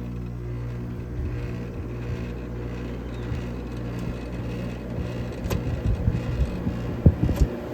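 Vintage Carrier Siesta window air conditioner running just after being switched on, with a steady low electrical hum from its compressor and fan. A few short knocks come near the end.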